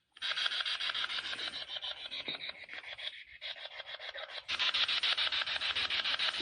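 EVP spirit box sweeping through radio frequencies: a rapid, choppy rasp of static pulses. It fades quieter in the middle and comes back louder about four and a half seconds in.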